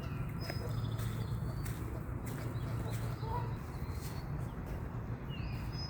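Faint high chirps and short whistles of small birds come and go over a steady low rumble.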